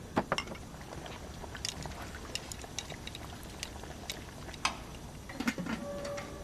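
Scattered light clinks and clatters of bowls and utensils as a bowl of noodles is being prepared, over a low background with soft liquid sounds.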